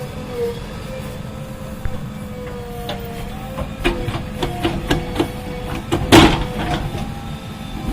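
JCB backhoe loader's diesel engine running steadily with a wavering whine over it, then a run of sharp knocks and clanks, and a loud crash about six seconds in as the bucket works the ground.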